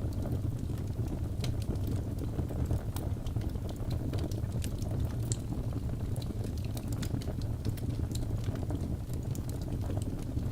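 Wood fire burning in a fireplace: a steady low rumble of flame with many scattered sharp crackles and pops from the logs.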